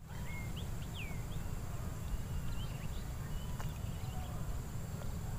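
Wild birds chirping outdoors: several short chirps and a falling whistle in the first second and a half, then a few fainter chirps, over a steady low rumble of outdoor riverside ambience.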